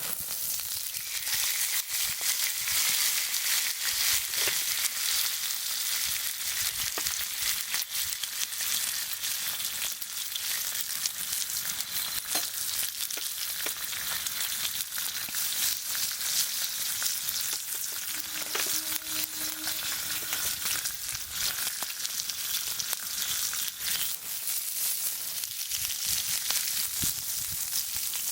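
Meat sizzling in a hot pan over a campfire: a steady, dense hiss full of small pops and crackles. About two-thirds of the way through, a brief low steady hum sounds for a couple of seconds.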